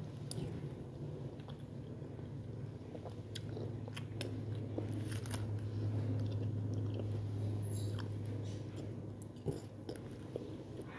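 Close-up chewing and mouth sounds of someone eating vegetable soup with meatballs, with scattered small clicks of a spoon. A low steady hum runs underneath, louder in the middle.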